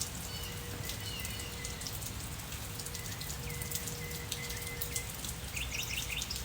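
Rain falling, with many individual drops ticking close by. A few short bird chirps come through now and then.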